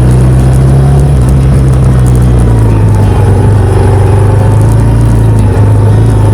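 Motorcycle engine running steadily while riding at an even speed, a loud low drone with little change in pitch.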